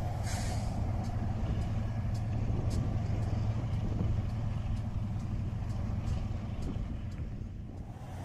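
Diesel freight locomotives hauling a train of hopper cars: a steady low engine drone over a rumble, with faint regular clicks and a brief hiss about half a second in, easing off slightly near the end.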